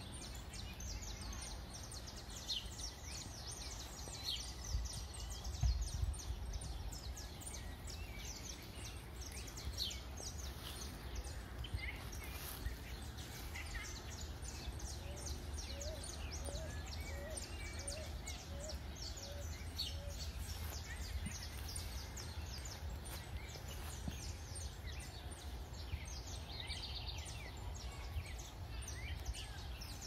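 Songbirds chirping and calling, many short high notes packed close together, with a run of about eight short rising notes in the middle. A steady low rumble lies underneath, with a thump about five to six seconds in.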